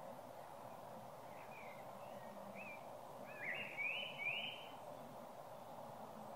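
A bird calling outdoors over a steady background hiss: a few faint short chirps, then two louder rising calls about four seconds in.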